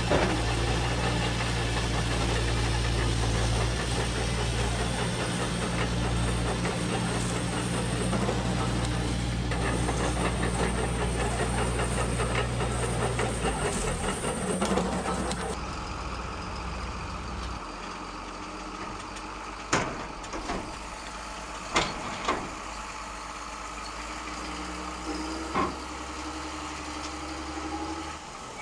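Radio-controlled construction models running: a steady motor and engine-like hum for roughly the first half. It then drops to a quieter run, with a few sharp knocks such as the metal bucket or load striking.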